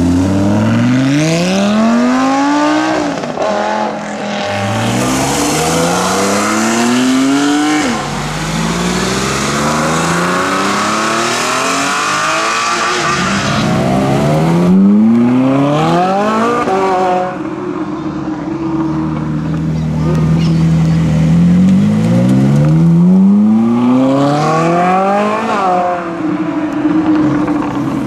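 Sports cars accelerating hard past one after another, each engine's note climbing steeply and then dropping sharply, about four or five times over. A rushing tyre and exhaust noise accompanies them.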